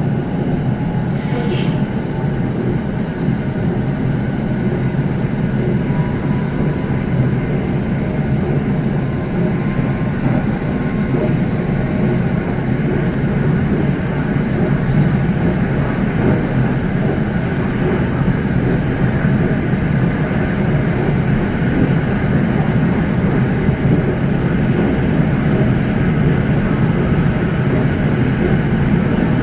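SRT Red Line electric commuter train running at top speed, heard from inside the car: a steady, even rumble of wheels on rail.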